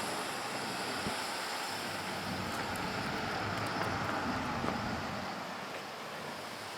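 Steady rushing road noise of a moving car, with a faint tap about a second in.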